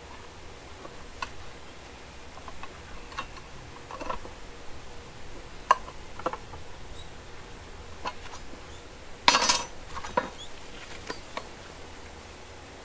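Scattered light metallic clinks and knocks from metal pieces being handled, with a louder rattling clatter about nine seconds in.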